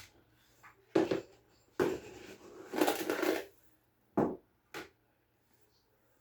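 Handling noises: a series of short knocks, scrapes and rustles, the longest about three seconds in, then two sharp knocks before it goes quiet.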